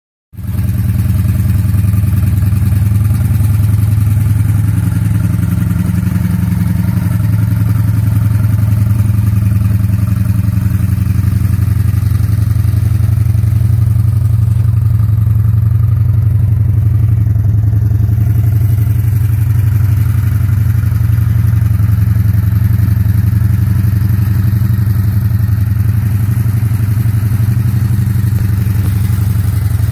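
Honda VF1100C Magna's liquid-cooled V4 engine idling steadily.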